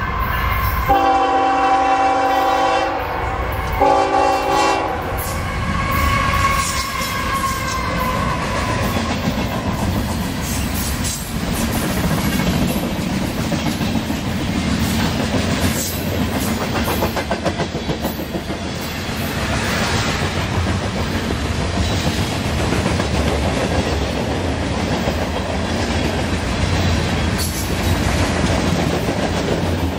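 Norfolk Southern freight train led by two GE ES44AC diesel locomotives sounding its multi-tone horn in two blasts, a longer then a shorter one, in the first few seconds. The locomotives then pass close by, followed by a steady run of freight cars rolling past with the clickety-clack of wheels over the rail joints.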